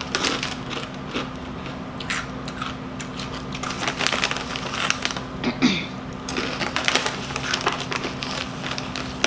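Close-up crunching and chewing of Doritos Dinamita rolled tortilla chips: a dense, irregular run of crisp crackles.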